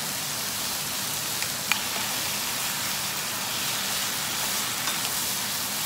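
Beef, bean sprouts and bok choy sizzling steadily in a hot pan as the sauce goes in and the stir-fry is tossed with chopsticks, with a few light clicks.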